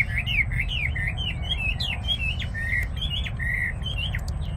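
A songbird singing a quick run of varied, swooping whistled phrases that stops shortly before the end, over a steady low rumble.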